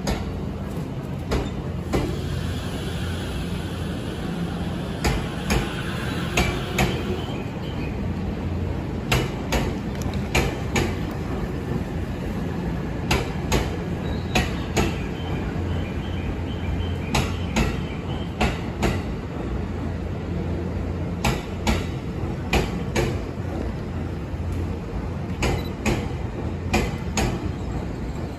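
E257 series electric limited-express train rolling past over the rails, with a steady low rumble and a clickety-clack of wheels crossing rail joints, the clicks coming in pairs as each bogie goes over. A faint high whine is heard in the first several seconds.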